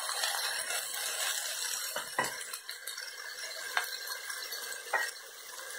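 Chicken pieces sizzling in a frying pan, a steady hiss, with a few sharp knocks of the spatula against the pan about two, three and a half and five seconds in.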